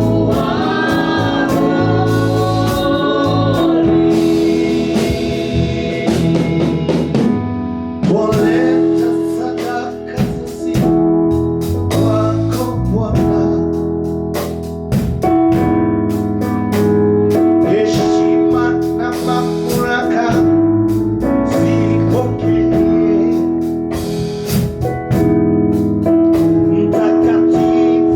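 Gospel praise and worship music: keyboard with a held organ-like note, a steady drum beat and singing.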